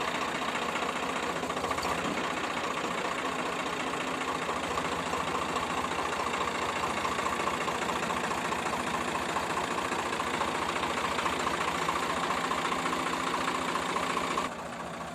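Swaraj 855 tractor's three-cylinder diesel engine running steadily under load while driving a sugarcane crusher, with a knocking diesel beat and the crusher's machinery mixed in. The sound drops suddenly near the end.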